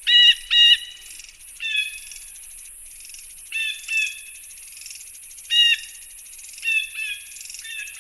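Bird calls: about ten short, arched notes with a few evenly spaced overtones, some in quick pairs, at irregular intervals. A steady high insect hiss runs underneath.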